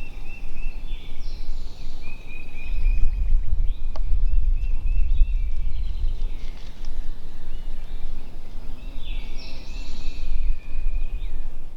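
Small songbirds singing in short repeated chirped phrases, with wind rumbling on the microphone, heaviest from about three to six seconds in.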